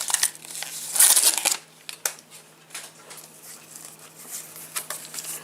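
Foil trading-card pack wrapper crinkling loudly for about half a second, about a second in, then soft rustles and ticks of trading cards being handled.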